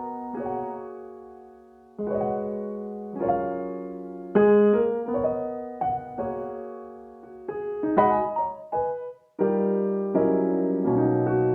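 Background music: a piano playing slow chords and melody notes, each struck and left to fade.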